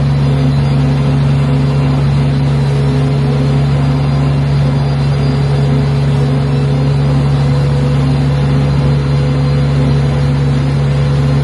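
Steady engine hum: a constant low drone with no change in pitch or level.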